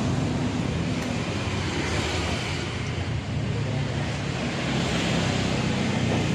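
Toyota Innova's engine running with its air-conditioning compressor in service: a steady low hum under an even hiss.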